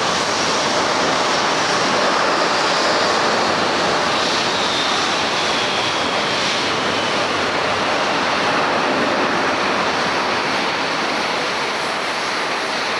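Landing Airbus A350-900's Rolls-Royce Trent XWB jet engines: a loud, steady rush of jet noise, with a faint high whine that falls slightly in pitch about four to six seconds in.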